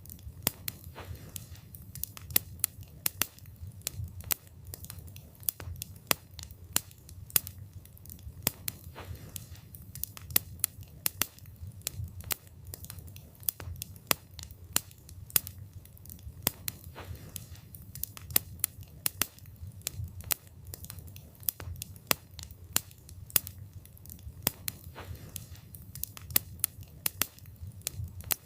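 Wood fire burning, with the wood crackling and popping in sharp, irregular snaps, often several a second, over a low steady rumble.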